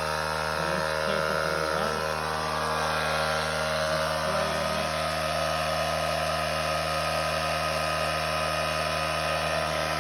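Steady, continuous mechanical hum with a low drone and a hiss over it, like an engine or motor running.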